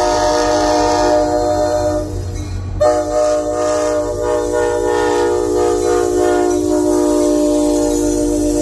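Locomotive air horn sounding a long, loud, held chord. It breaks off briefly about two seconds in and comes back with a sharp click.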